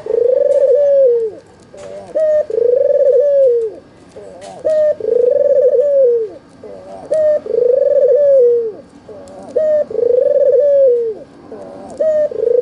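White, red-eyed (albino) ringneck dove cooing. Each call is a short note followed by a long coo that drops in pitch at its end, repeated about every two and a half seconds, five times.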